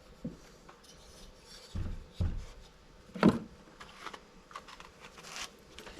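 Small parts being handled on a workbench: a few light clicks and knocks, two dull thumps around two seconds in and one sharper click a little after three seconds.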